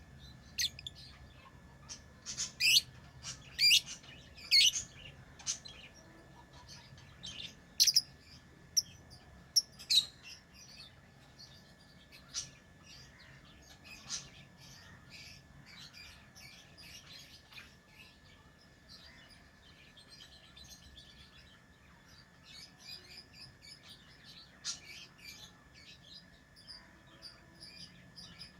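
Pet lovebirds chirping: loud, sharp calls over the first ten seconds or so, then softer, quicker chatter.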